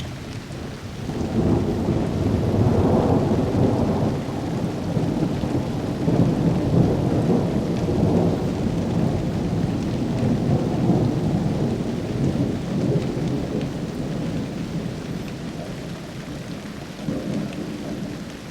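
Long rolling rumble of thunder that swells about a second in, surges again midway, then slowly dies away with a brief last swell near the end, over steady rain.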